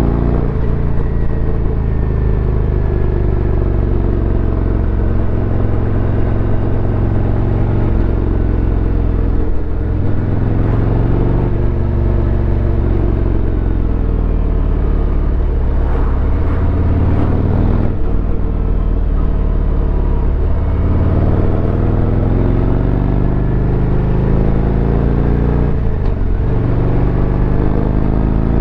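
Harley-Davidson Road Glide's V-twin engine running under load as the motorcycle is ridden, its pitch climbing and falling with several sharp breaks at gear changes.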